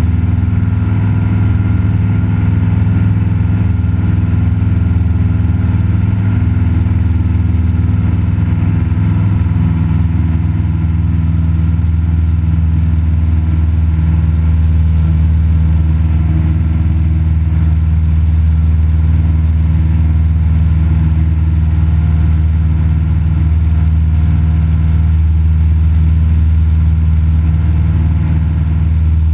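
Cessna 172 Skyhawk's piston engine and propeller running steadily at cruise, heard from inside the cabin.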